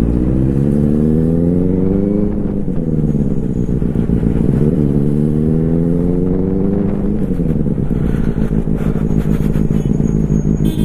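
Motorcycle engine accelerating under load: the pitch rises, drops sharply on an upshift about two seconds in, climbs again, drops on a second upshift about seven seconds in, then runs steady.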